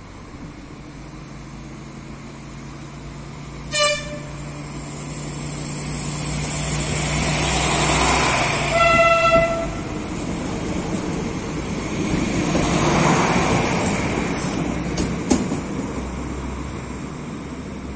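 A regional passenger multiple-unit train approaches and passes close by, sounding its horn in a short toot about four seconds in and a longer blast about nine seconds in. Its running noise and wheel noise swell as it goes by, then fade as it pulls away.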